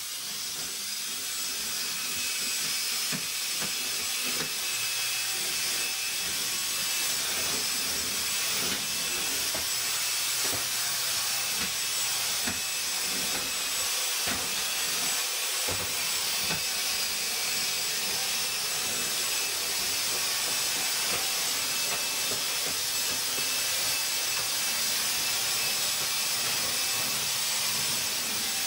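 Vacuum cleaner switched on and running steadily: a rushing hiss of air with a thin high motor whine. It builds over the first second or two, with occasional faint knocks.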